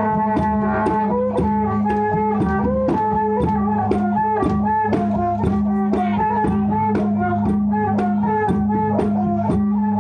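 Live music for the Rueam Mamuat spirit dance: a held drone under a wavering, bending melody, with percussion strikes about twice a second.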